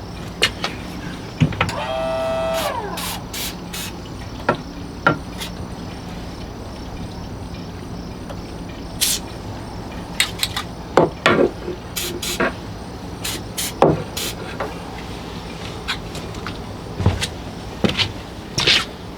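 Irregular clicks and knocks of hands and a can working around a marine diesel's linkages while Fluid Film is applied, over a steady low hum. About two seconds in, a brief pitched sound slides downward for about a second.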